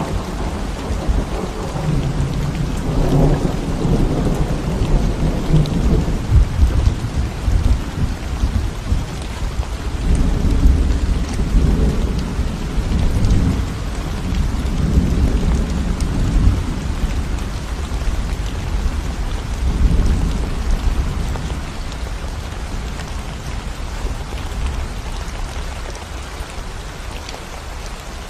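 Steady rain falling on a concrete road, with rolling rumbles of thunder through roughly the first twenty seconds that then die away, leaving only the rain.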